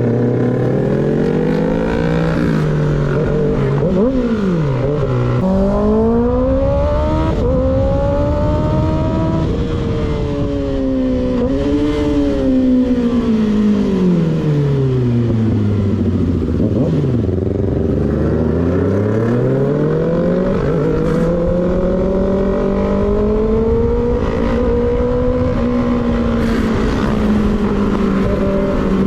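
Sport motorcycle engine running under way, revving up and down: the pitch climbs in several steps with breaks as it is shifted through gears, falls away low in the middle, then climbs again.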